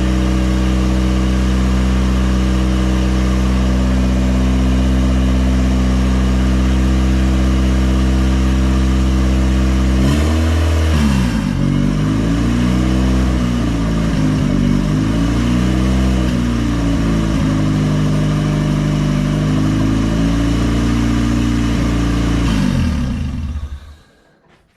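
Honda D15B2 inline-four running on its first startup with a freshly swapped cylinder head. It idles steadily, is revved up and down several times from about ten seconds in, then shuts off near the end. It runs clean, which the owner calls the best sound he's heard in a long time.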